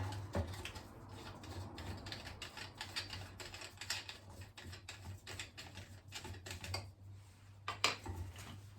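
Quick, irregular small clicks and taps of hard plastic fan parts being handled and fitted during disassembly, with a louder cluster of clicks near the end, over a low steady hum.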